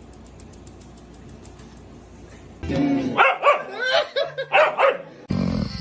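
A dog barking: a quick run of about six loud barks over some two seconds, starting about halfway through, after a quiet stretch.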